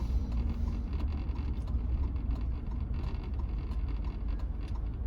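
Road noise inside a Chevrolet pickup's cab while driving: a steady low rumble of engine and tyres.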